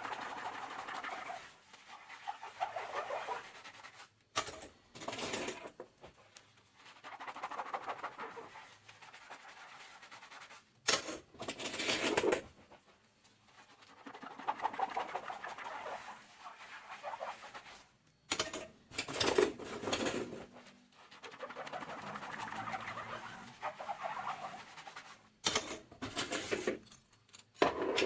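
Soapy sponge scrubbing dishes in a kitchen sink: squeaky, squishy rubbing strokes, broken about every seven seconds by a short, louder burst.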